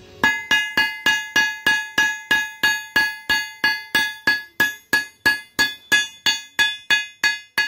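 Hammer striking steel in a steady run of about three blows a second, some two dozen in all, each blow ringing with a clear metallic tone; the run stops sharply near the end.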